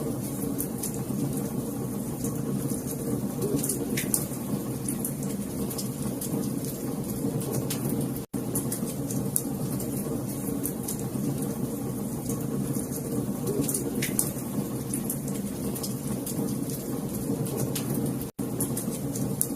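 Wood fire crackling in a fireplace: a steady low roar of flames with frequent sharp pops and snaps. The sound cuts out for an instant twice, about eight and eighteen seconds in.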